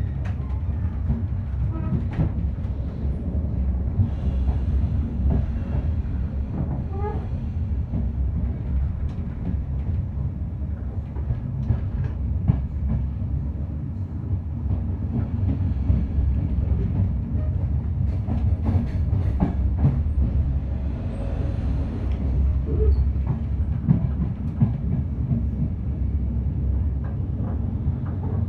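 Passenger train running along the track: a steady low rumble of wheels on rails, with scattered clicks and knocks from the wheels.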